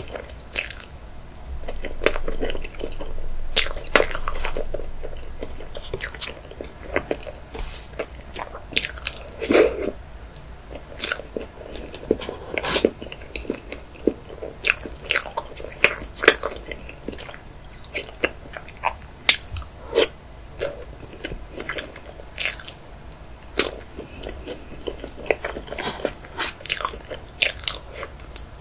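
Close-miked chewing of chocolate layer cake: wet, sticky mouth sounds with many sharp, irregular clicks and smacks.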